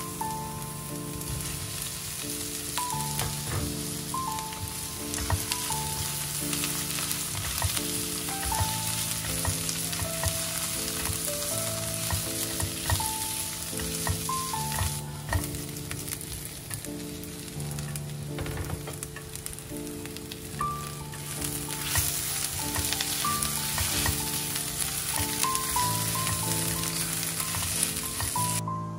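Fish cake strips, green onion and vegetables sizzling in oil in a nonstick wok, stirred with a silicone spatula that gives frequent light scrapes and taps. Soft background music plays underneath; the sizzling stops just before the end.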